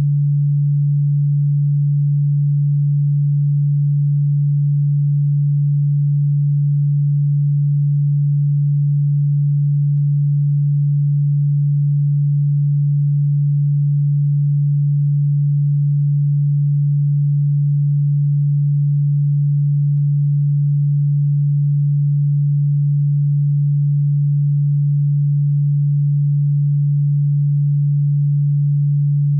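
A steady, loud, low electronic sine tone that comes in suddenly out of silence and holds one unchanging pitch.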